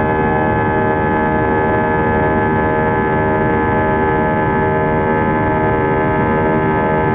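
Airbus A320's jet engines heard from inside the cabin during the climb after takeoff: a steady drone with several constant tones over a low rumble.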